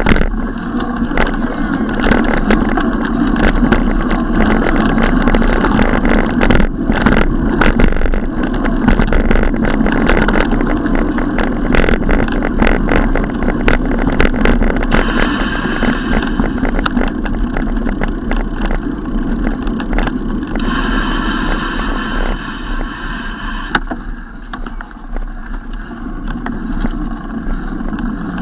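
Wind rushing over the microphone and road noise while riding a bicycle, with frequent small clicks and rattles.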